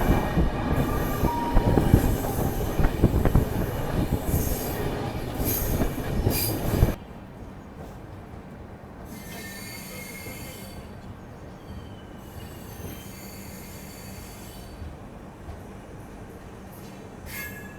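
Passenger train running on the rails, a loud rumble with high wheel squeal, that drops suddenly to a much quieter rumble about seven seconds in. After that, short high-pitched wheel squeals come and go.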